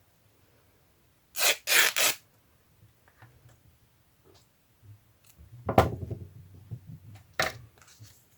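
Paper and craft supplies being handled on a work table: three quick scraping strokes about a second and a half in, then a knock with a short clatter around the middle, and a sharp click near the end.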